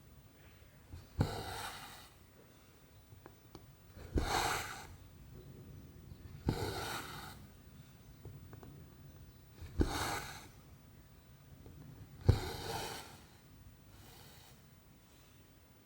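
Cross-stitch needle pushed through 14-count canvas with a small tap, then cotton thread drawn through the fabric with a short hiss, about six stitches, one every two to three seconds.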